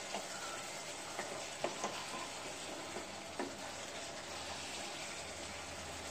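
Mutton curry sizzling in a pan as it is stir-fried down with a wooden spatula, the added water cooking off into the masala. A few irregular taps and scrapes of the spatula against the pan.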